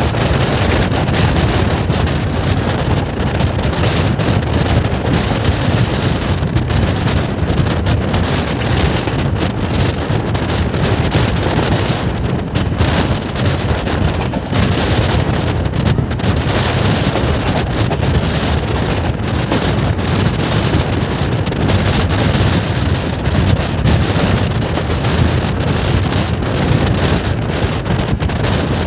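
Passenger train running at speed, a steady rumble of the coaches on the track, with strong wind rushing over the microphone.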